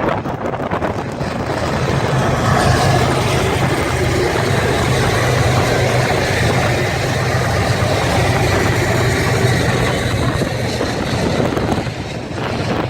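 Freight train rolling past, a steady loud rumble of wheels on rail that swells about two seconds in and eases near the end.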